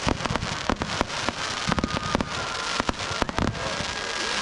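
Fireworks display going off: a rapid, irregular run of bangs and crackles, several a second.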